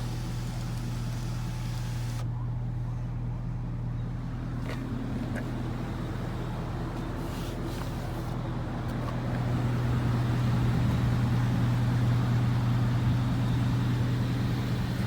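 2007 Chevrolet Avalanche LTZ running at idle: a steady low hum that grows louder about two-thirds of the way through.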